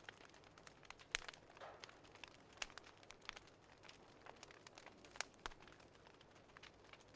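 Faint wood fire crackling: a low hiss with irregular sharp pops and snaps, the strongest a little over a second in.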